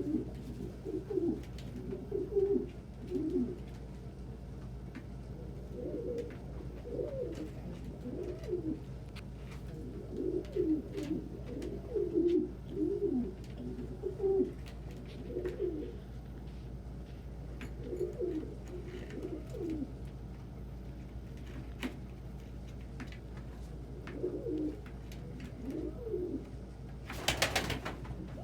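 Domestic pigeons cooing indoors, low warbling coos coming in repeated bouts over a steady low hum. A brief rushing noise comes about a second before the end.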